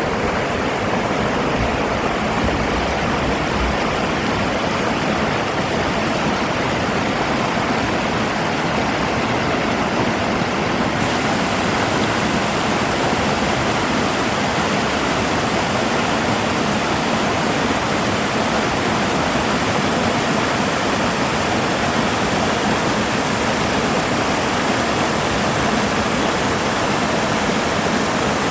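Mountain valley stream rushing, a steady, even sound of running water.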